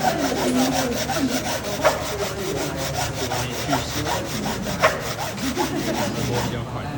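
Sandpaper scrubbed on a wood board in rapid, even back-and-forth strokes, sanding down the saw marks; the sanding stops near the end.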